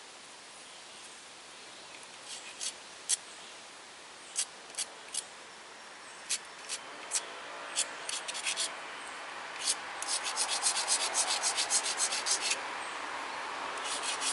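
A tiger chert point being ground on an abrading stone. Scattered sharp scrapes come first, then a fast run of back-and-forth grinding strokes from about ten seconds in that stops shortly before the end.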